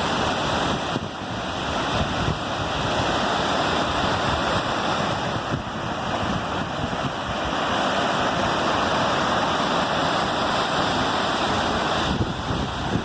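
Waterfall: water pouring and crashing in a steady, loud rush with no breaks.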